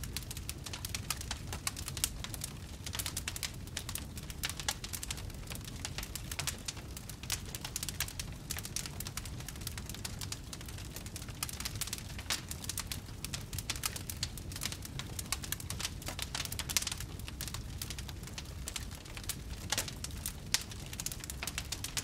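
Campfire crackling and popping: a dense, irregular run of sharp snaps over a steady low rumble.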